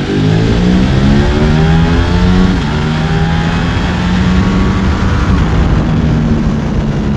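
2023 Ducati Streetfighter V4S's 1103 cc Desmosedici Stradale V4 engine revving: the engine speed climbs for about two and a half seconds, then drops back and runs steadily.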